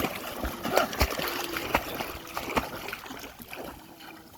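Shallow water splashing and sloshing, with irregular small knocks and slaps, dying down toward the end.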